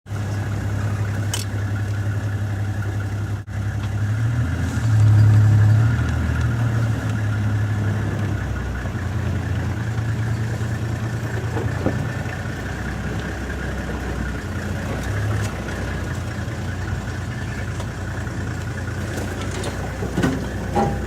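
Safari game-viewing vehicle's engine idling with a steady low hum that swells briefly about five seconds in.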